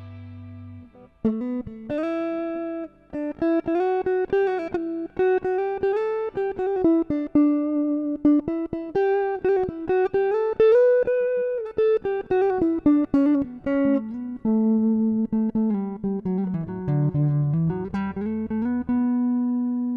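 Electric Stratocaster guitar played through a Valeton Dapper mini amp-simulator pedal: a single-note melodic lead line of quickly picked notes with bends and slides, between a held note at the start and another held note near the end.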